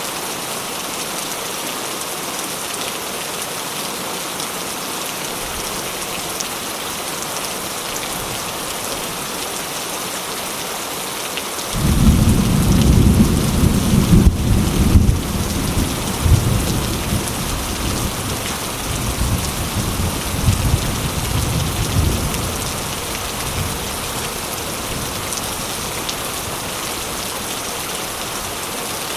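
Steady rain falling, an even hiss. About twelve seconds in, a roll of thunder breaks in suddenly and rumbles low for about ten seconds before fading back under the rain.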